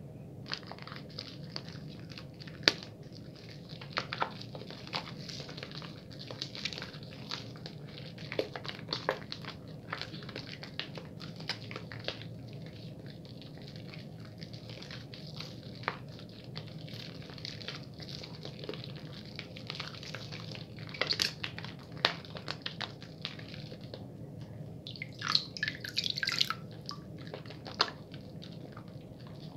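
Wet bar soap being lathered quickly between hands, with irregular squishy, crackling clicks of foam and water, and a denser burst of crackling near the end.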